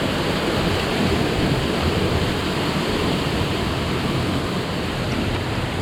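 Steady rushing roar of a waterfall close by, an even wash of water noise with no breaks.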